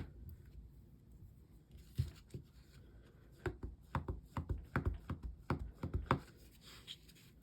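A stamp on an acrylic block tapped repeatedly onto a VersaMark ink pad to ink it for a sentiment: a couple of light knocks, then a quick run of about a dozen taps, three to four a second.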